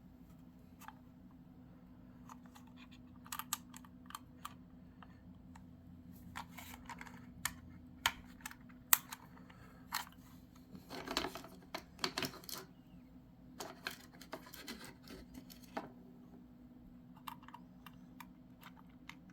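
Small scattered clicks and scrapes of plastic and metal parts being handled as Kadee No. 18 couplers are fitted into the NEM coupler sockets of a model railway wagon, with a longer run of scraping about eleven seconds in. A faint steady hum runs underneath.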